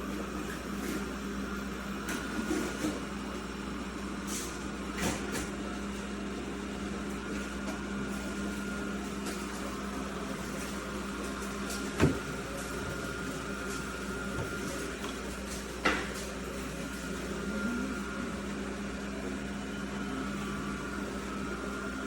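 iRobot Roomba Combo Essential (Y0140) robot vacuum running with a steady motor hum and whine. Two sharp knocks stand out, about four seconds apart in the second half.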